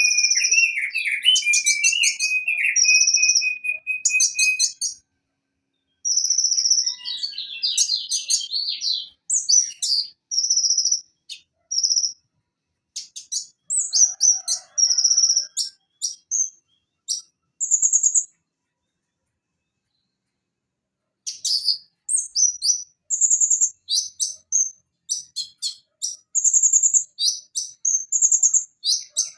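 Van Hasselt's sunbird (konin, Leptocoma sperata) singing a fast, high-pitched song of short chirping phrases and trills, with a pause of about three seconds past the middle.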